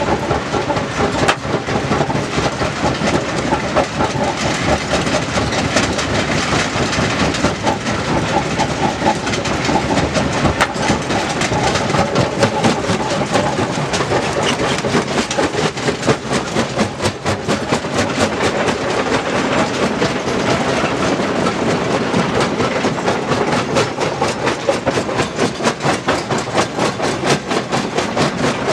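Stone crusher running, with a continuous loud clatter of rock being broken and rattling through the machine.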